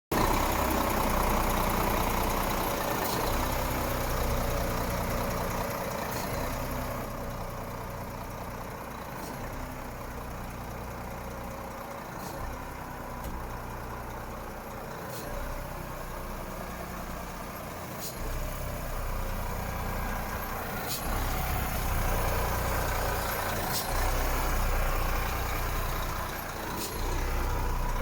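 Renault T 380 truck's six-cylinder diesel engine idling with a steady low hum that grows quieter for several seconds in the middle and then stronger again. A few faint clicks are heard along the way.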